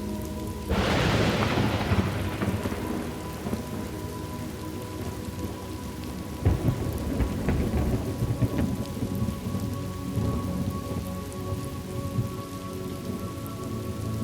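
Thunderstorm: steady rain with a sharp clap of thunder about a second in that fades over a couple of seconds. A second, lower roll of thunder rumbles through the middle.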